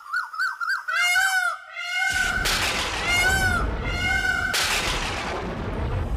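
Repeated animal calls: a quick run of wobbling chirps, then several longer arched calls, over a steady hiss that starts about two seconds in.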